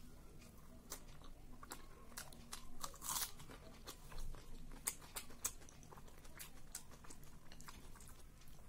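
A person chewing a mouthful of soft rice and chicken curry eaten by hand, close to the microphone: scattered wet mouth clicks and smacks, with a louder smack about three seconds in.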